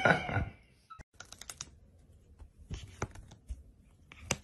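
The end of a cat's meow, then three short bursts of light, quick clicking scratches on woven fabric, fitting a cat's claws picking at upholstery cloth from underneath.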